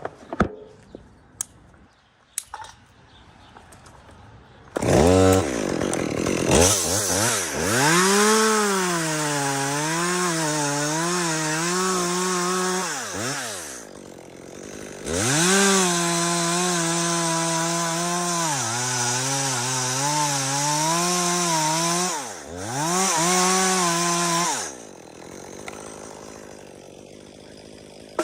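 Two-stroke chainsaw revved hard in three long runs, its pitch wavering up and down, with quick drops in revs between runs. A few light knocks and clicks come before it, about five seconds in, and it falls back low near the end.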